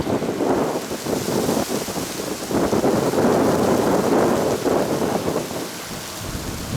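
Strong gusty wind buffeting the microphone: a loud, rough rumble that surges and eases, heaviest about halfway through.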